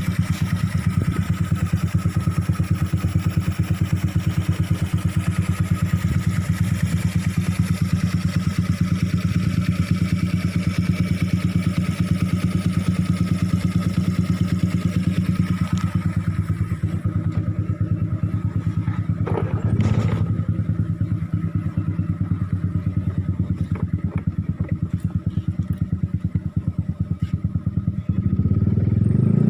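Motorcycle engine idling steadily through an aftermarket Daeng exhaust, a deep, even pulsing. There is a single click about two-thirds of the way through, and the engine begins to rev up near the end.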